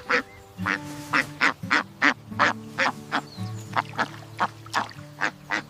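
A duck quacking in a rapid, steady series of short quacks, about three a second, over background music of held low notes.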